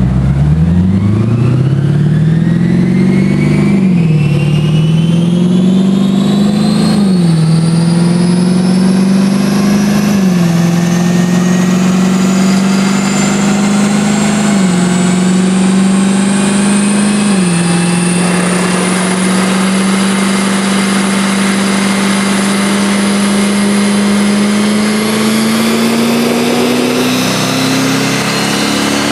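A 2011 Lexus IS-F's 5.0-litre V8 through an ISS Forged DES aftermarket exhaust, at full throttle on a dyno pull. The engine climbs in pitch and drops back at five upshifts, then holds a long, slowly rising pull in a high gear before easing off near the end.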